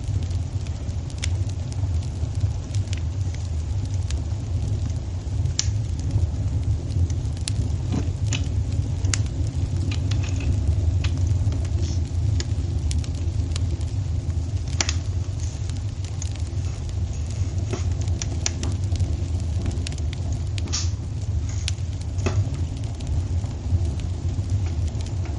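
Wood fire burning in a fireplace: a steady low rumble of the flames with irregular sharp crackles and pops scattered through it.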